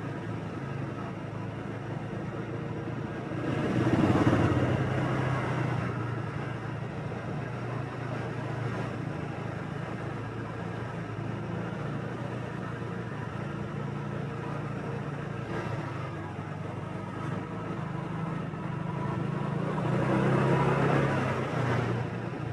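Motorbike engine running steadily while riding through city traffic, over a constant rush of road noise. The traffic swells louder twice, about four seconds in and again near the end, as vehicles go by close.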